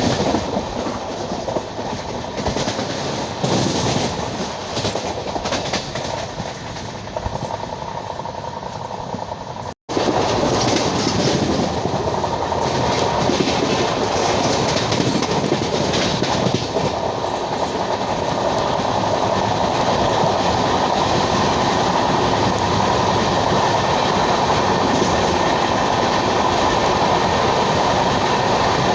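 Passenger train running on the track: wheels and bogies of an LHB coach rumbling over the rails with a clickety-clack. Near the first third the sound drops out for an instant, then returns louder and steadier.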